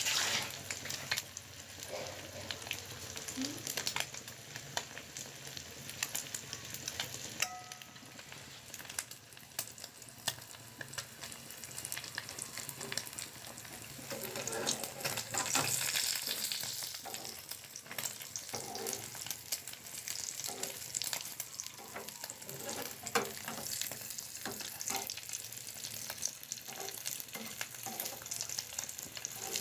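Omelet of beaten eggs sizzling in hot oil in a small nonstick frying pan, with steady hissing full of small crackling pops. A spatula scrapes and pushes the setting eggs around the pan, and the sizzling gets louder for a couple of seconds around the middle.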